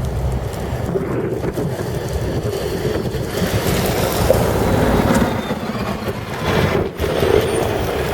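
Storm wind buffeting the microphone: a loud, rough rumble that rises and falls with the gusts, dipping briefly near the end.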